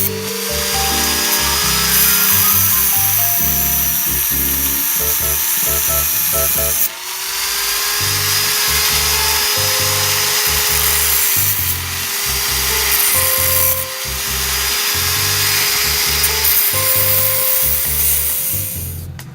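Electric power tool running steadily over background music, breaking off briefly about seven seconds in and stopping just before the end.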